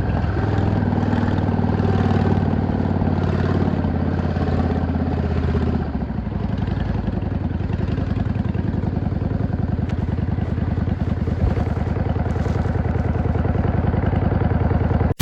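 V-twin cruiser motorcycle engine running under way for about six seconds, then easing off and settling to an even, lumpy idle beat.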